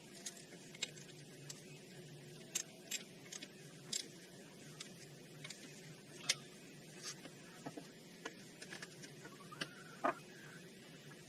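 Scattered light clicks and taps at an irregular pace over a faint steady hum, as of hand tools and small metal parts being handled during ATV wheel-bearing work. The sharpest click comes about six seconds in.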